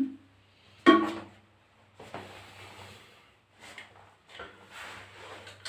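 A sharp clunk about a second in, then soft scraping and rubbing as toilet cistern parts are handled.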